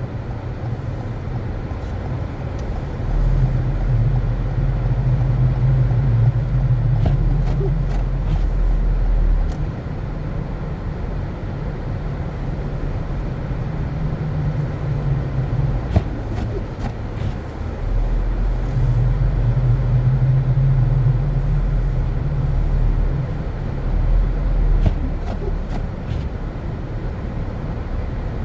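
Car driving, a steady low rumble of engine and road noise that swells louder twice for several seconds, with a single sharp click about midway.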